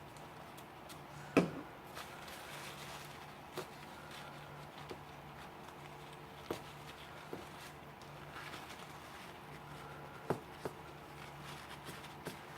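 Parts of a Leatherman Wingman multi-tool being handled during disassembly: scattered single metal clicks and taps, the loudest about a second and a half in, over a low steady hum.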